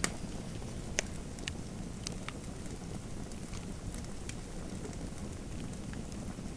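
Fireplace fire crackling: a steady low rumble with scattered sharp pops, the clearest right at the start and about a second in.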